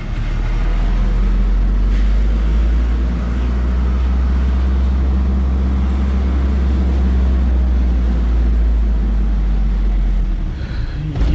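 Diesel truck engine running steadily while the truck is driven, a loud low drone that drops away about ten seconds in.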